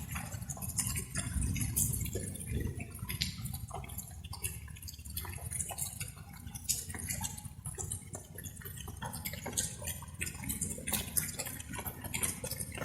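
Light rain with irregular drops pattering and dripping close by, over a steady low rumble.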